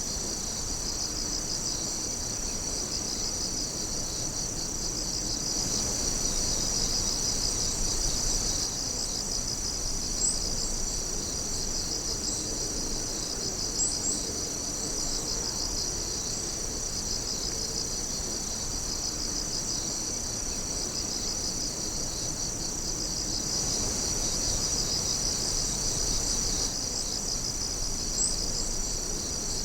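A chorus of night insects, crickets among them, trilling and chirping steadily in high, pulsing bands. A few sharper chirps stand out against it.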